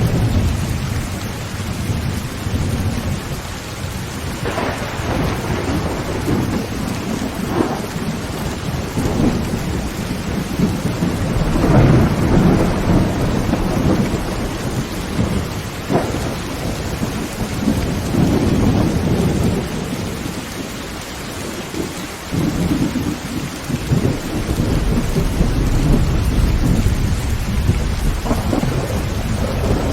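Heavy rain beating steadily on a tin roof, with rolling thunder rumbling again and again, swelling loudest about twelve seconds in and again near twenty, with a few sharper cracks between.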